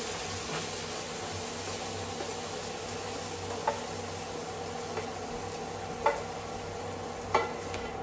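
Chicken pieces sizzling steadily in a frying pan, nearly cooked through, with three sharp clicks of a utensil against the pan in the second half.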